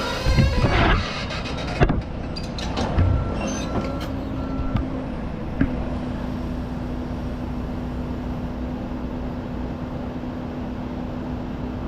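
Heavy diesel equipment working: loud metal clanking and squealing in the first few seconds, with a sharp knock about two seconds in, then a steady engine hum.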